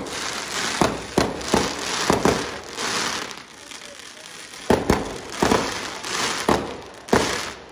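Fireworks going off: a quick irregular run of sharp bangs with crackling between them, a short lull about halfway, then another run of bangs.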